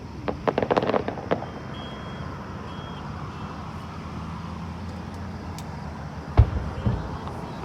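Fireworks: a quick run of crackles in the first second and a half, then one loud bang about six and a half seconds in, followed by a lesser pop, over a steady low rumble.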